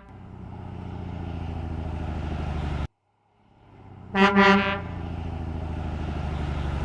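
Truck sound effect: a low engine rumble that builds, cuts off abruptly about three seconds in, then starts again after a short gap, with a brief horn honk about four seconds in.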